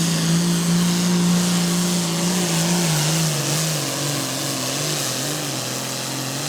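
Pro Farm class pulling tractor's diesel engine running flat out under load, dragging the weight-transfer sled: a loud, steady drone whose pitch starts to waver up and down about halfway through.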